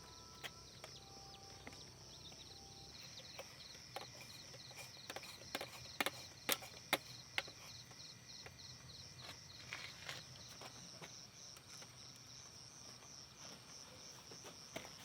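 Insects trilling steadily in a fast, even pulse. A string of sharp clicks or knocks comes in the middle, the loudest around six to seven seconds in.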